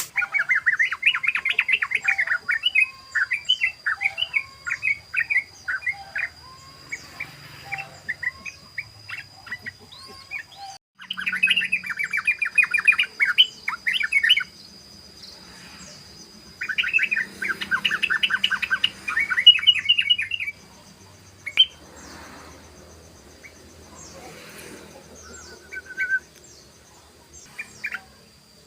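Yellow-vented bulbul song: dense bursts of rapid chattering notes come three times, about 11 and 17 seconds apart, with sparser single calls between them.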